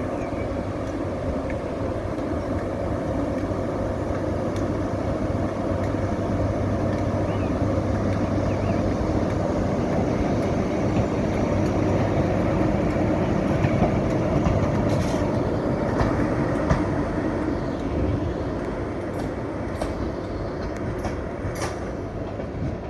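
Class 90 electric locomotives running light engine past on the rails: a steady hum of blowers and running gear that grows louder to a peak midway and then fades. Wheels click sharply over rail joints in the later part.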